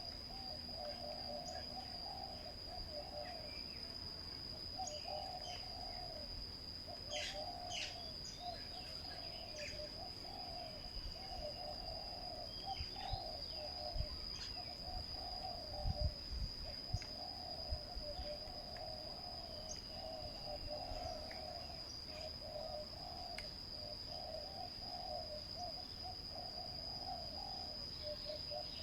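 Spotted doves cooing in a low, repeated rhythm, with scattered short small-bird chirps and a steady high-pitched insect whine.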